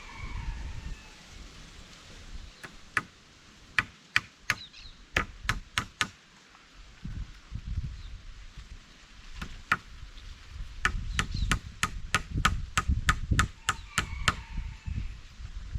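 Repeated sharp chopping blows: an uneven bout of about nine strikes, then after a pause a faster run of about four or five strikes a second.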